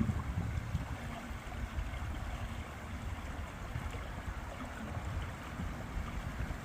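Steady rushing noise of flowing river water, heaviest in a choppy low rumble, with wind on the microphone.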